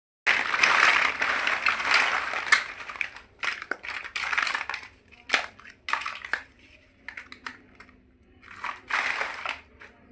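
Crinkling and rustling of packaging, loudest and most continuous for the first three seconds, then in separate bursts broken by sharp clicks of plastic building-block pieces.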